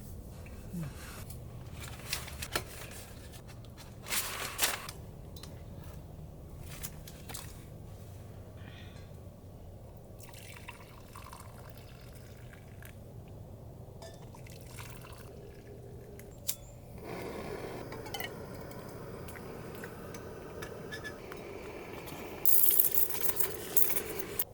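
Liquid being poured, running steadily through the latter part, with scattered clicks and knocks before it and a short burst of louder clatter near the end.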